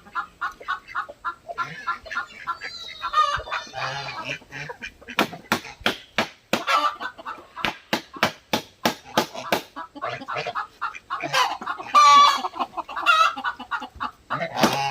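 Chickens clucking throughout, with a rapid run of hammer blows on wood, about three or four strikes a second, through the middle.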